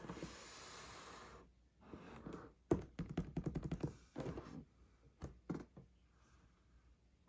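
Plastic toy pieces and packaging being handled: a thunk about two and a half seconds in, then a quick run of taps and clicks and a few separate knocks.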